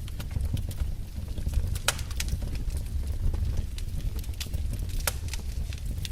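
Wood fire crackling: irregular sharp pops and snaps, a few louder ones about two seconds and five seconds in, over a steady low rumble of burning.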